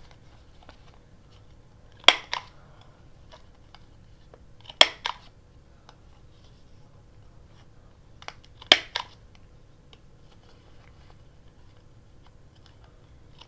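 Three sharp cuts through card stock, a few seconds apart, each followed by a lighter click: the corners of a paper journal tag being cut off.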